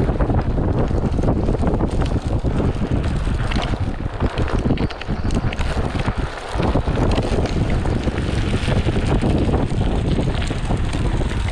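Wind buffeting the microphone over the rolling noise of a Onewheel XR's single fat tire on a dirt trail, with many small scattered ticks.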